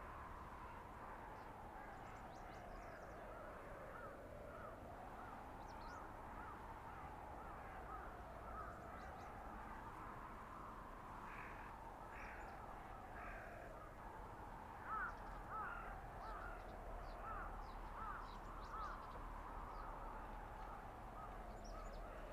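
Blizzard wind howling through a winter forest, its whistle rising and falling slowly about every six seconds, with faint short chirps and ticks over it, a little louder in the second half.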